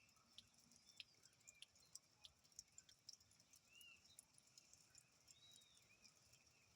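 Faint scattered ticks of rain dripping, with a few short arched bird chirps about halfway through and near the end.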